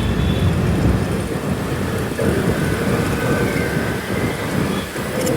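Wind buffeting the microphone of a moving scooter rider, a heavy low rumble over road and traffic noise, strongest in the first second. A faint steady whine joins about two seconds in.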